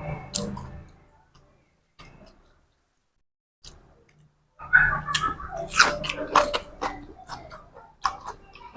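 A person chewing crunchy food close to the microphone, with crisp crunches and wet mouth clicks. The chewing pauses for a few seconds, then comes back louder in the second half.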